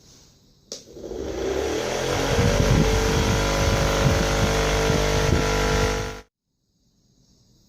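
A small electric motor, such as that of a homemade bamboo table fan, is switched on with a click. It spins up over about two seconds, runs steadily with a whine, then cuts off abruptly.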